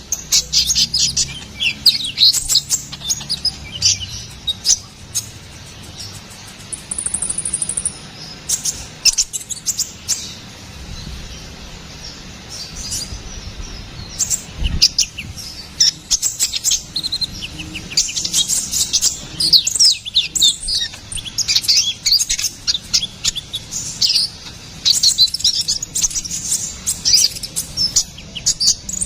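A sunbird, the 'konin kolibri ninja' of Indonesian bird keepers, singing rapid, high-pitched chirps and twittering trills in quick bursts. The bursts thin out briefly in the middle, then come thick and fast again.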